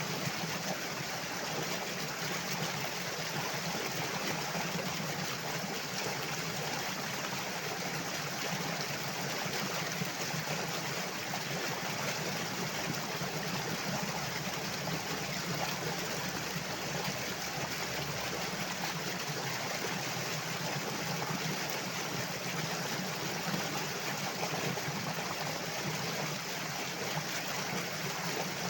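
Flowing water, a steady even rush that runs on without a break.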